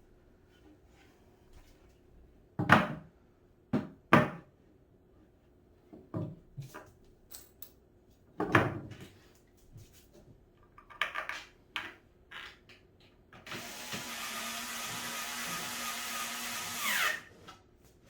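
Scattered knocks and clatter of cat tower parts being handled during assembly. Near the end a cordless drill or electric screwdriver runs for about three and a half seconds, rising in pitch just before it stops.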